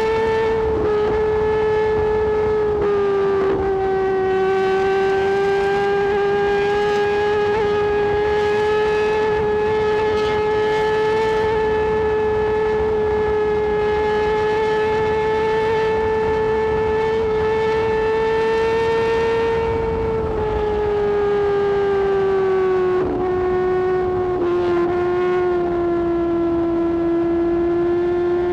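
Suzuki GSX-R1000R's inline-four engine running at high, steady revs at highway speed. Its pitch dips slightly about three seconds in, then falls gradually about twenty seconds in as the bike slows.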